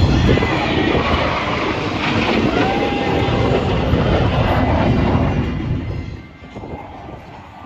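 Loud, rumbling aircraft engine noise that fades away about six seconds in, as an aircraft passes by.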